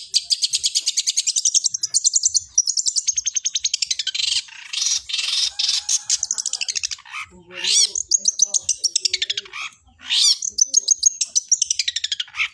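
Long-tailed shrike (cendet) singing a fast chattering song that mimics Eurasian tree sparrow chirps. It comes in rapid runs of high repeated notes and sweeping trills, with brief breaks about seven and ten seconds in.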